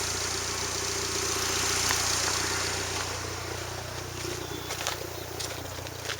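1998 Mercury Mystique's 2.0-litre four-cylinder engine idling steadily, its lowest rumble dropping out near the end. The owner says it has a slight miss and hesitation and puts it down to worn plugs and wires and possibly a plugged-up distributor cap.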